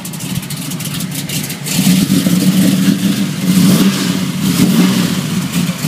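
A car engine running loudly close by, suddenly louder about two seconds in and then holding a steady, uneven rumble.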